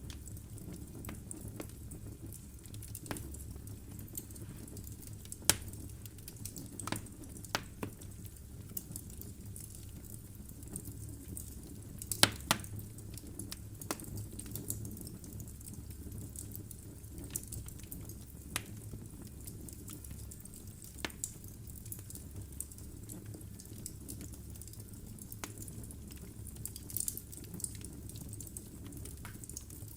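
Wood logs burning in a fireplace, crackling with irregular sharp pops and snaps over a steady low rumble of the fire. The loudest pops come about five and a half and twelve seconds in.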